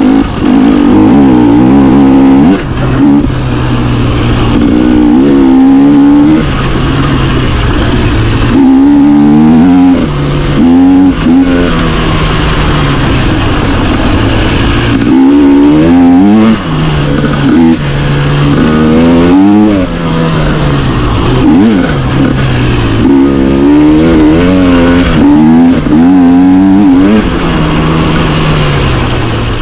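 Dirt bike engine revving hard as it is ridden, pitch climbing in repeated rises and dropping sharply each time the throttle closes or a gear changes. A steady rushing noise runs underneath.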